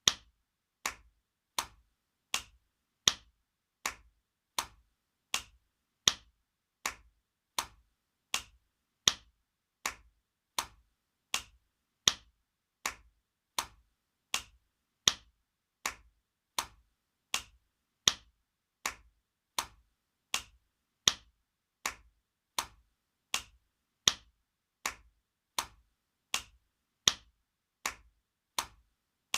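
Spanking sound effect: sharp hand slaps on skin repeating in an even loop, about four every three seconds, the first of each four the loudest.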